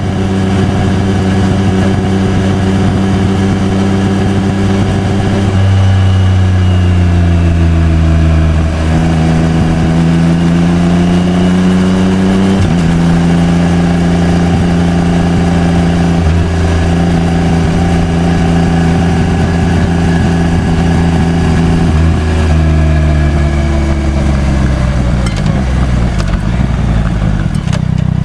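Yamaha XSR900's CP3 inline-three engine through an SP Tadao POWERBOX FULL RS titanium full exhaust, under way at moderate revs. The pitch drops in steps about five, twelve and twenty-two seconds in as it shifts up, holds steady in between, and falls away near the end as the throttle is closed.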